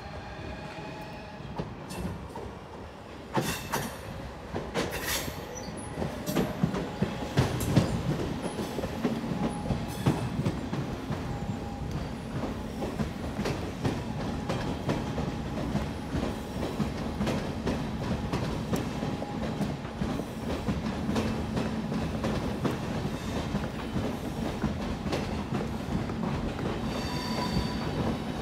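A Lastochka (Siemens Desiro RUS) electric train passes close below, its wheels clattering over points and rail joints above a steady rumble. A thin high squeal is heard near the start and again near the end.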